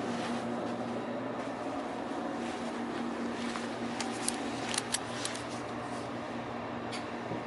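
Steady cabin hum inside a JR Kyushu 787 series limited-express carriage, with an even drone and a few light clicks and rattles about four to five seconds in.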